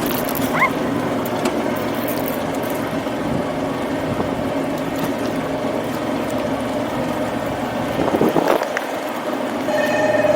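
Bumper boat's small motor running steadily, with a brief splash of water about eight seconds in. A steady ringing tone starts near the end.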